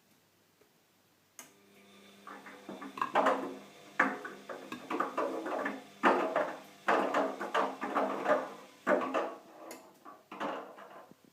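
Bosch washing machine running in the last minutes of its programme: a motor hum starts abruptly about a second and a half in, with a clattering swish about once a second as the drum turns the wet washing.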